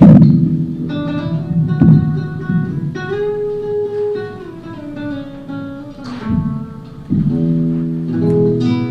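Acoustic guitar played live: chords strummed at the start, about two seconds in, and again about six and seven seconds in, with single notes ringing and sliding in pitch in between.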